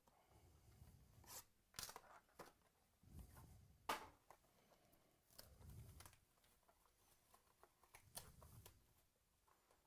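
Faint handling of trading-card boxes and packaging: a few sharp clicks, the loudest about four seconds in, with brief rustles and soft low bumps.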